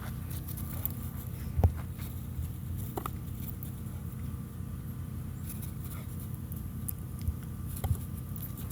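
A puppy biting and knocking a hard tetherball: a few sharp knocks, the loudest about one and a half seconds in, over a steady low rumble.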